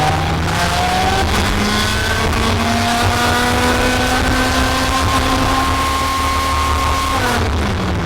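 Onboard sound of a race car accelerating. The motor's pitch climbs and resets a few times in the first two seconds, then rises slowly for several seconds and falls away about seven seconds in as it slows. A constant heavy rumble runs under it.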